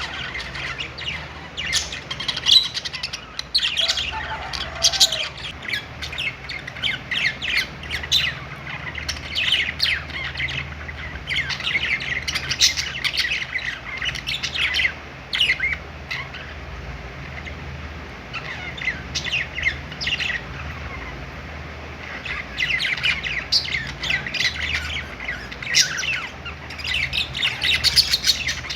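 A group of budgerigars chirping and chattering: many short, high calls overlapping in bursts, easing off for a few seconds in the middle. A faint low hum runs underneath.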